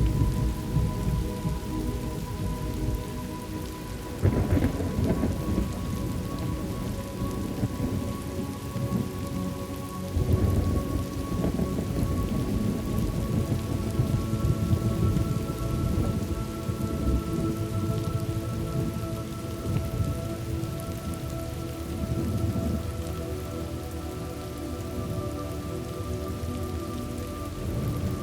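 Steady rain falling, with rolling thunder rumbling beneath it. The rumbles swell about four seconds in and again about ten seconds in.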